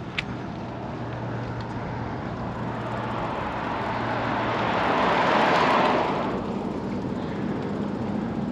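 A car driving past: its noise swells to a peak about five and a half seconds in, then fades away.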